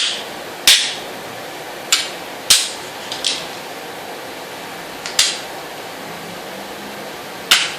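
Checker pieces clacking down on a board as moves are played: about seven sharp, short clacks at irregular intervals, two of them close together a little past three seconds in, over a steady low hiss.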